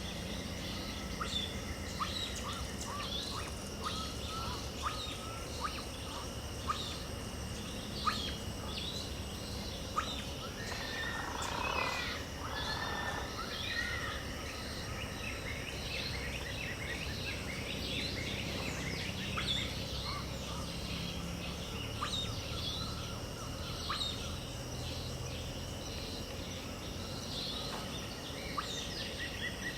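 Dawn chorus: many birds calling in quick short chirps over a steady high insect drone, with a fuller, lower bird call about a third of the way in.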